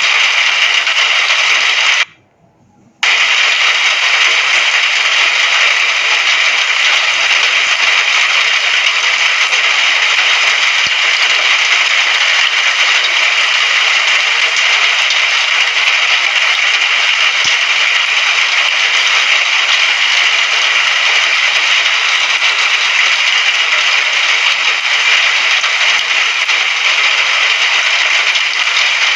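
Recorded rain sound effect: a steady, dense hiss of rain that cuts out for about a second about two seconds in, then resumes unchanged.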